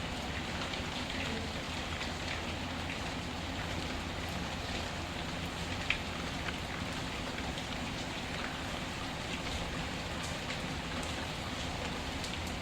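Steady rain falling, mixed with the scattered small crackles of a wood fire; one sharper pop about halfway through.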